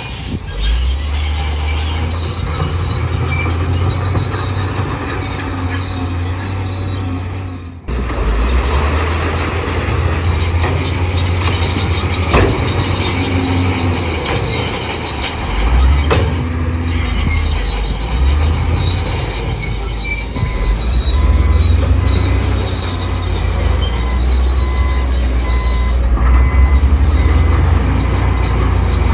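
Heavy diesel machinery running, most likely a crawler bulldozer working under load, with its steel tracks squealing. The sound breaks off briefly about eight seconds in.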